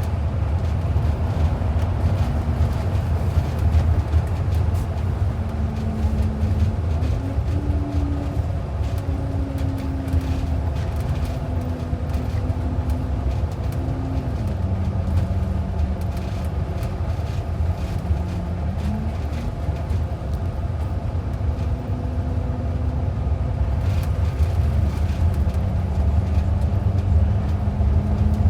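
Interior of a transit bus on the move: steady engine and road rumble, with a whining tone that steps up and down in pitch several times as the drivetrain speed changes.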